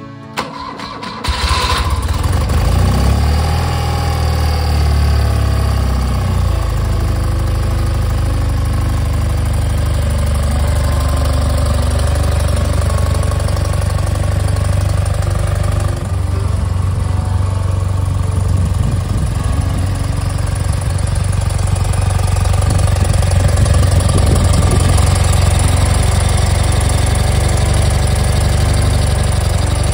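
BMW R80/7's air-cooled flat-twin boxer engine on its first start: a click, then it catches about a second in. It revs and settles over the next few seconds, then idles steadily on choke.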